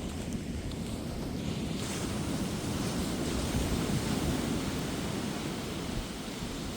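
Ocean surf washing onto a beach, swelling to a peak partway through and easing off again, with wind buffeting the microphone.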